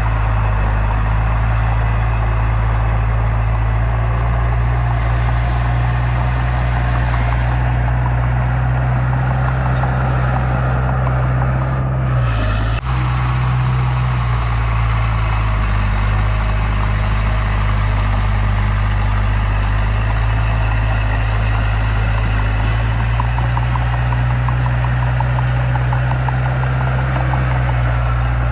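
Diesel engine of heavy earthmoving machinery running steadily at a low, even pitch, with a brief break about twelve seconds in.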